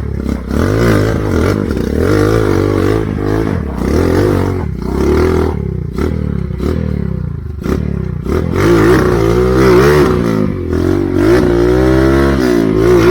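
Motorcycle engine revving up and down over and over, its pitch rising and falling every second or so.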